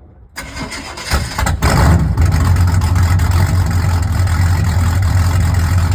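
Square-body Chevy C10's small-block V8 with a custom exhaust starting: a second or so of cranking, the engine catches, and about two seconds in it settles into a steady, loud, deep idle.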